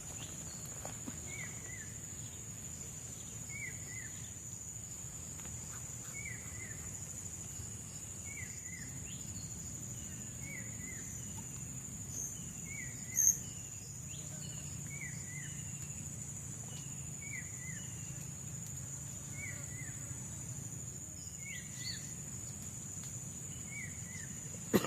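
Forest ambience: a steady high-pitched insect drone, with a short two-note call repeating about every second and a half. A single brief sharp chirp stands out about halfway through.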